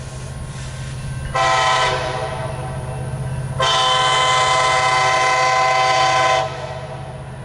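Diesel locomotive air horn on the leading KCS SD70ACe sounds a short blast, then a long blast of about three seconds, over the steady low rumble of the train's diesel engines.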